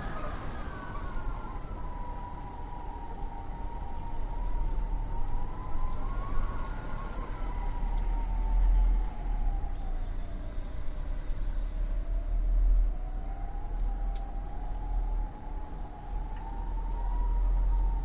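Winter wind howling: one wavering whistle-like tone that rises and falls slowly over several seconds, over a deep gusting rumble.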